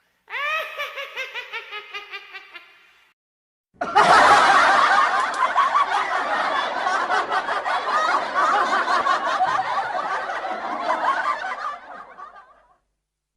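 Laughter sound effects: a short snickering laugh in quick, falling pulses that fades out over about three seconds, then after a brief silence a long burst of many people laughing together, like a sitcom laugh track, dying away near the end.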